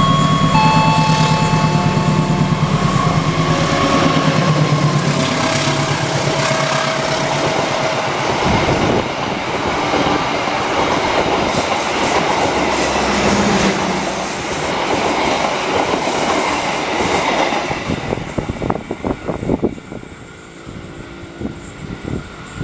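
A diesel-hauled passenger train passing close at speed. The locomotive's engine hums steadily in the first few seconds, then the carriages' wheels clatter in a steady rhythm over the rail joints. The last wheels click past and the sound falls away near the end as the train moves off.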